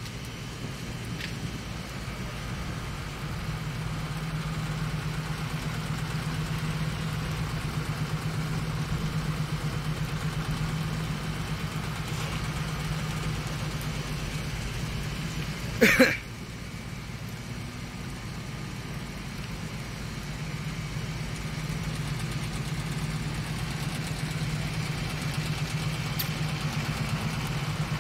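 Car engine idling steadily, with one brief loud sharp sound about sixteen seconds in.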